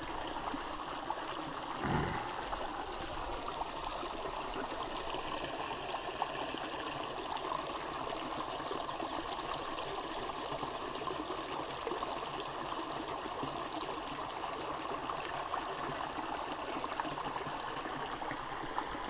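Shallow creek water running and babbling steadily over rocks. A single brief low thump about two seconds in.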